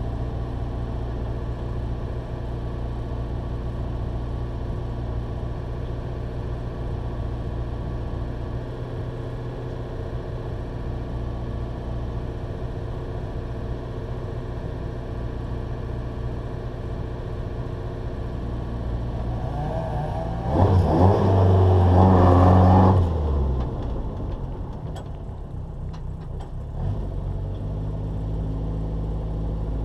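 Opel Corsa A hillclimb car's engine idling steadily, heard from inside the stripped cabin, with a brief burst of revs about two-thirds of the way through that rises and falls before settling back to idle.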